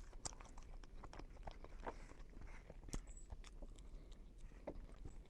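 Faint, close-up chewing of a slice of pizza: scattered small wet mouth clicks and smacks.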